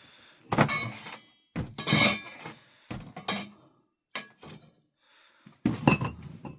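About five separate sharp clattering knocks with short ringing tails, a few hard objects striking or being set down, with quiet gaps between them.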